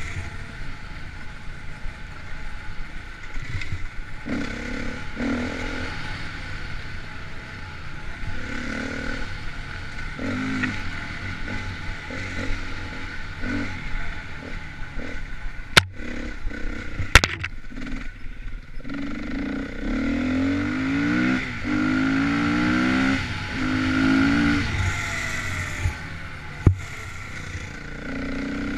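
Dirt bike engine in an enduro race, the revs rising and falling over rough ground, with rattling from the bike and two sharp knocks a little past halfway.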